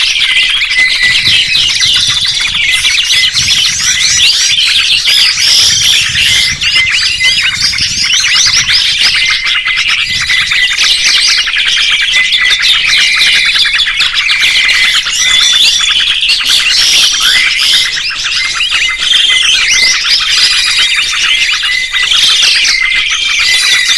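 Several songbirds chirping and trilling at once, in a dense, continuous mix of high, rapid notes and glides.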